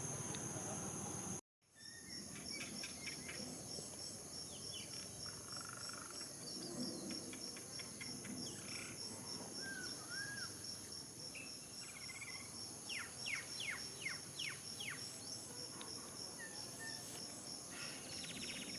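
Outdoor insect chorus: a steady, high shrill drone from crickets or cicadas, with scattered bird chirps, including runs of quick falling chirps about two-thirds of the way through and again near the end. The sound drops out for a moment about one and a half seconds in.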